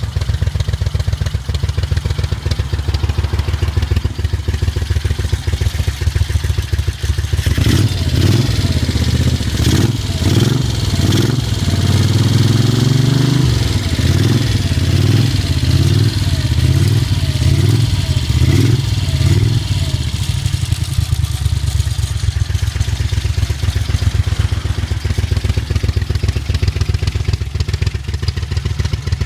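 Magni Arturo 1000 motorcycle engine running for the first time in over ten years: idling, then revved in about a dozen quick throttle blips between roughly eight and twenty seconds in, then settling back to a steady idle.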